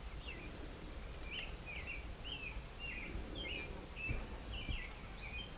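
Small bird chirping in a run of short, high, quick notes, two or three a second, over a low outdoor rumble, with two soft low thumps near the end.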